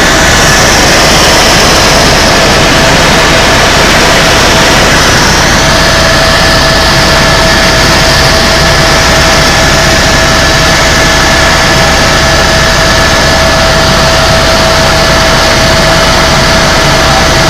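Tour helicopter in flight heard from inside the cabin: a loud, steady drone of rotor and turbine engine with a constant high whine over a low rotor flutter.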